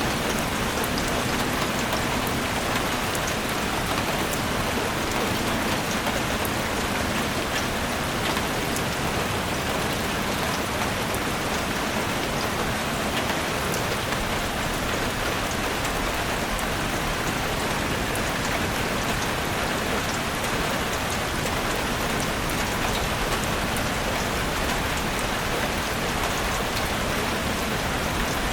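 Steady rain falling on forest vegetation, a dense even patter of many fine drop ticks with no change in strength.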